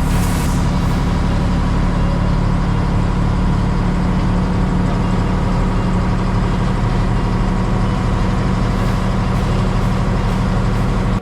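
A heavy engine running steadily, a low even hum with no change in speed.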